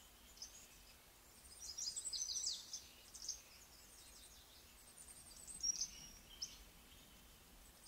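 Faint bird chirps in two short flurries, about a second and a half in and again around five and a half seconds in.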